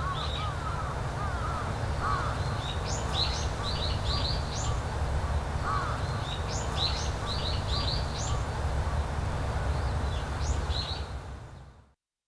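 Birds calling outdoors, many short high chirps and a few lower calls, over a steady low rumble. The sound fades out to silence near the end.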